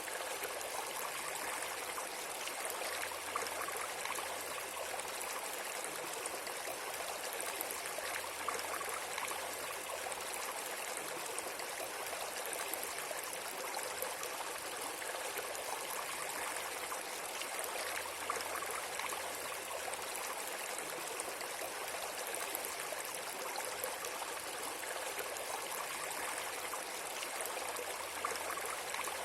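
Flowing water running steadily, an even rushing hiss without pauses.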